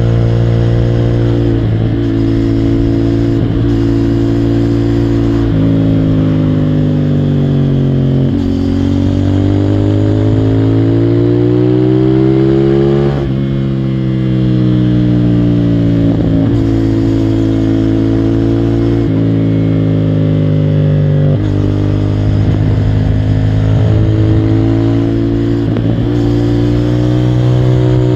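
CFMOTO 450SR motorcycle engine running under way, its revs holding, climbing and falling, with several sudden drops in pitch at gear or throttle changes.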